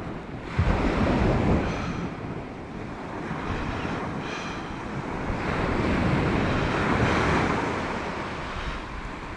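Sea surf washing onto the beach, with wind buffeting the microphone. A gust rumbles on the microphone just under a second in, and the surf swells louder around six to seven seconds in before easing.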